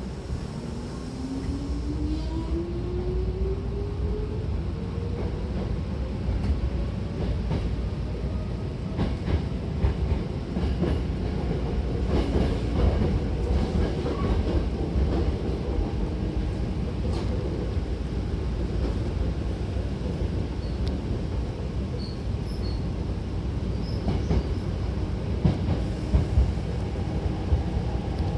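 Hankyu Kobe Line electric train pulling away and picking up speed. The traction motor whine rises steadily in pitch through the first ten seconds or so, over a steady rumble of the running train, with scattered clicks from the wheels and rails.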